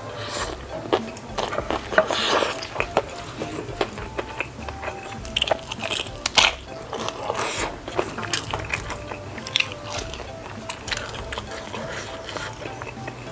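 Close-miked eating: chewing a mouthful of spicy noodles, then crunching bites of a crisp fried dumpling, with many sharp crunches through the middle. Faint background music plays underneath.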